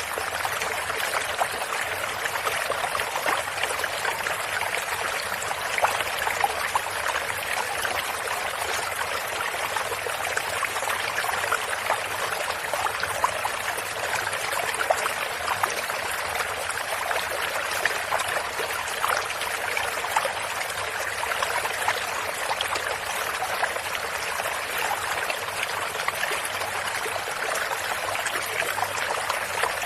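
Shallow stream of water running steadily, a constant splashing babble with many small trickling splashes.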